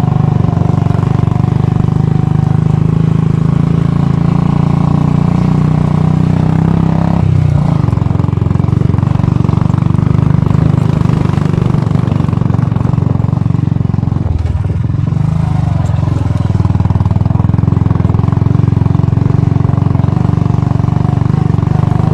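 Royal Enfield Bullet's single-cylinder four-stroke engine running steadily under way, its note dipping briefly about a third of the way in and again about two-thirds in.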